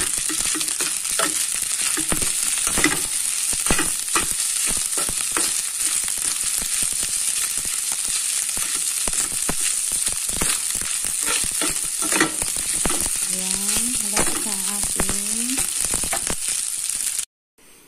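Fried rice sizzling in a hot pan, with a steady hiss, while a metal spatula stirs and tosses it, scraping and clinking against the pan again and again. The sound cuts off abruptly near the end.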